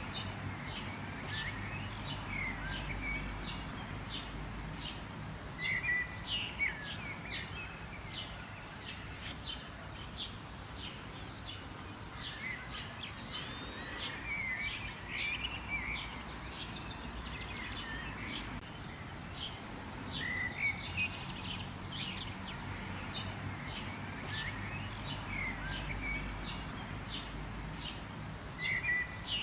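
Several birds singing and chirping over a steady background hiss, with many short, rapid high notes and quick whistled phrases throughout.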